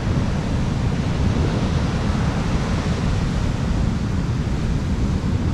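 Strong wind buffeting the microphone over the steady wash of surf breaking on the beach.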